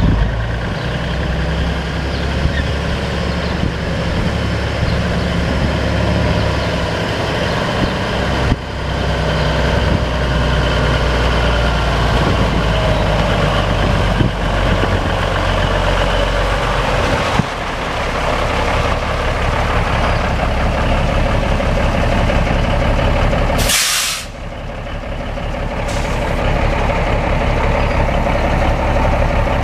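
Engine of a 1977 Ford 9000 tandem-axle grain truck running steadily, with one short, sharp burst of air hiss like an air-brake release late on and a smaller one just after.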